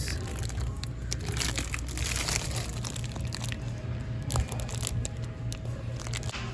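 Close handling noise: crinkling and rustling with many scattered sharp clicks, over a steady low hum and faint music.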